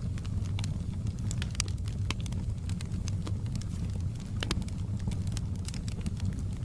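Wood fire in a fireplace crackling, with frequent irregular sharp pops over a steady low rumble of flame.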